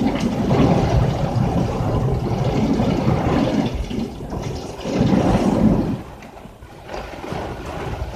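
Heavy rain falling on a car's roof and windshield, heard from inside the car. About six seconds in it suddenly becomes much quieter, sounding as if the rain had stopped.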